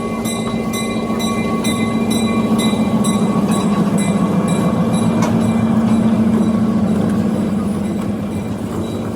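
Passenger train running along the track with a steady rumble of wheels on rail.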